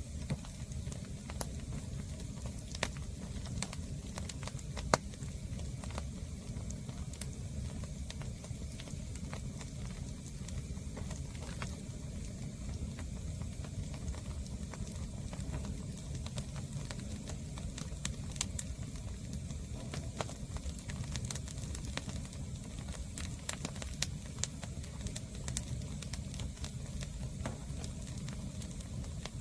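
A fire of green firewood burning, with scattered sharp crackles and pops over a steady low rumble.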